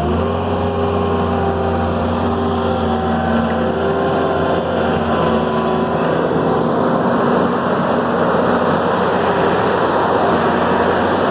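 An engine running steadily, its note holding level while a rougher rushing noise grows louder through the second half.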